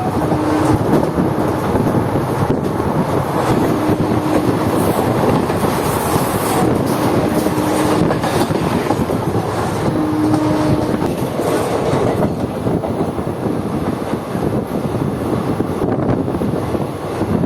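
Passenger train running steadily at speed: a loud, continuous rumble of wheels on the track.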